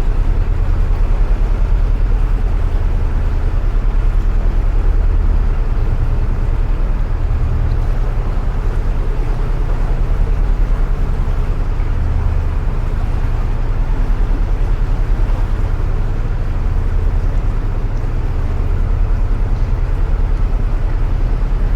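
Narrowboat engine running steadily at low revs, a deep, evenly pulsing throb, echoing inside a brick canal tunnel.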